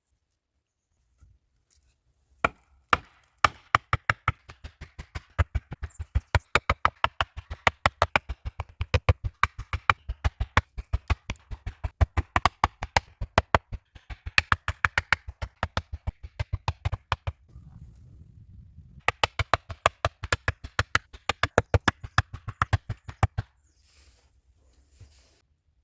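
Rapid, even knocks, about four or five a second, in two long runs with a short pause between them, like a blade or hammer striking wood over and over.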